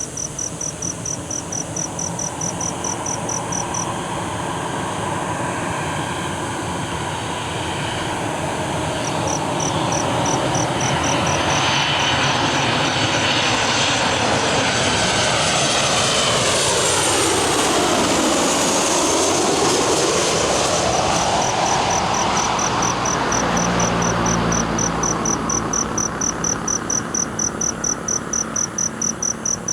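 Boeing 737-800 jet airliner on landing approach passing overhead: its engines grow louder, peak as it goes by with a sweeping, phasing whoosh, then fade away. Crickets chirp in a rapid steady pulse throughout.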